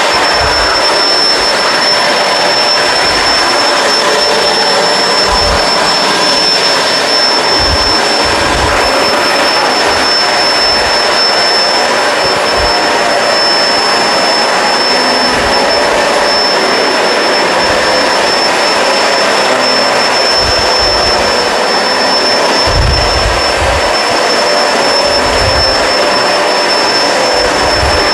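Kenmore Crossover Ultra upright vacuum running steadily while cleaning carpet: a loud, even rush of air with a steady high whine over it, and now and then a short low thump.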